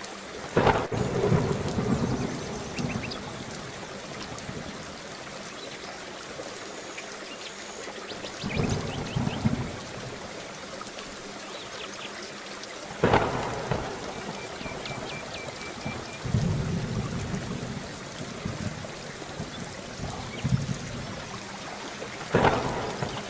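Thunderstorm: steady heavy rain hissing, broken by about six thunderclaps, each a sharp crack rolling off into a low rumble, the loudest about a second in and around the middle.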